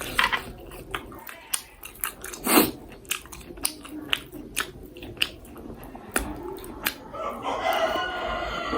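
Close-miked biting and chewing of marinated, slightly charred roast chicken, with a run of sharp, crisp crunches, one loud one about two and a half seconds in.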